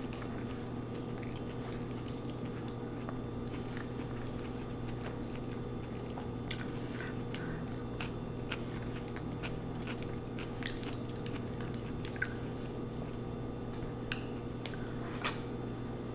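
Close-miked chewing and mouth sounds of a person eating lo mein noodles: soft wet clicks and smacks scattered throughout, over a steady low hum.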